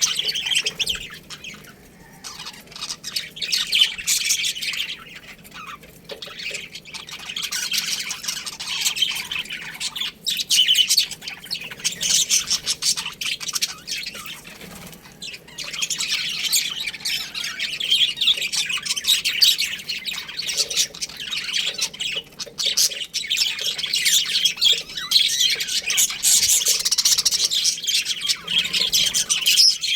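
A colony of budgerigars chirping and chattering, many birds at once in a dense, continuous twitter, easing off briefly twice before building again.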